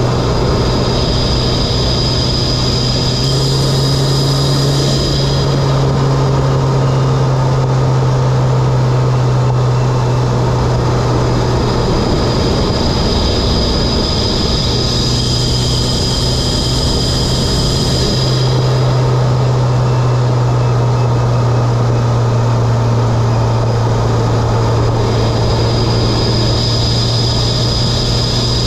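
Mitsubishi Lancer Evolution X's turbocharged 2.0-litre four-cylinder engine running at a steady drone while driving, fitted with an aftermarket intake and exhaust. A high whine rises in and fades out three times over the engine note.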